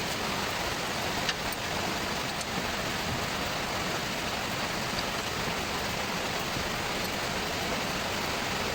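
Steady rain falling, an even hiss of drops, with a light click about a second in.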